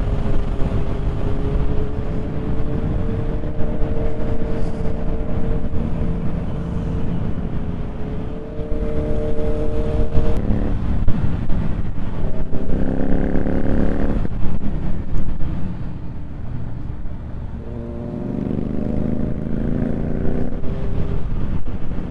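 Motorcycle engine running under way, its pitch rising and falling as the throttle is opened and closed, over a heavy rumble of wind on the microphone.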